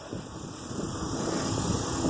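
Wind rumbling on the microphone of a handheld camera during a bicycle ride, a steady rush that grows slowly louder.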